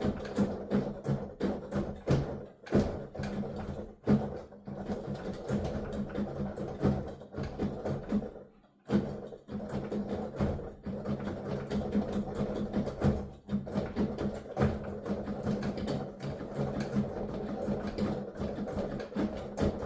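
Piano keys being played with the sound going only to headphones: the dull, irregular knocking and clatter of the key action under fast playing, with a brief pause about eight and a half seconds in.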